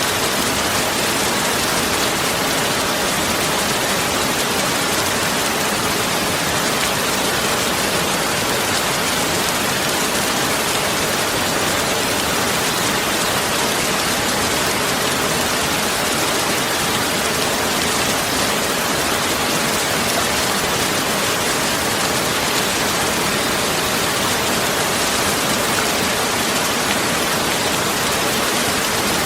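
A continuous, steady hiss, even and unchanging, with no pauses or separate events.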